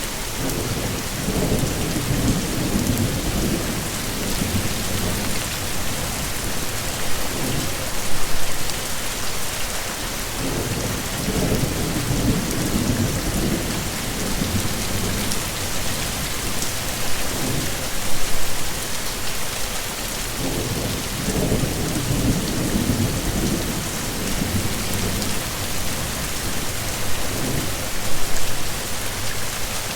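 Heavy rain falling steadily, with low rolling thunder rumbling several times, each rumble swelling for a few seconds.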